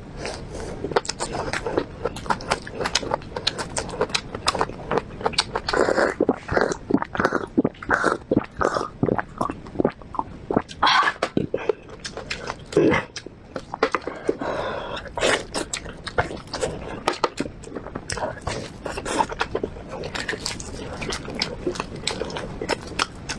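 Close-miked chewing of braised pork ribs: irregular wet mouth clicks, lip smacks and bites following one another without a break.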